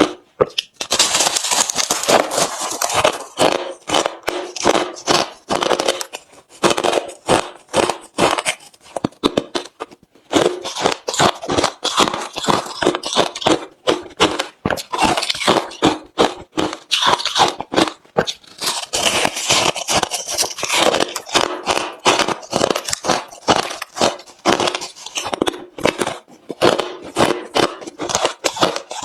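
Hard refrozen crushed ice being chewed close to the microphone: loud, dense, rapid crunching and crackling, broken by a few short pauses.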